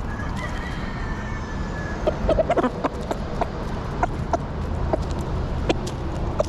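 Free-roaming chickens clucking in short sharp notes, densest about two seconds in, over a steady low rumble. A thin drawn-out call, falling slightly in pitch, comes near the start.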